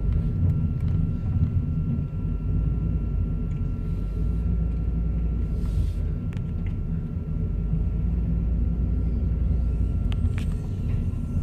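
Steady low rumble of a car's engine and road noise heard from inside the cabin while driving, with a few faint ticks near the end.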